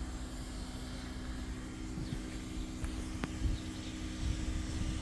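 Pressure washer running with a steady hum over a low rumble, and one faint tick about three seconds in.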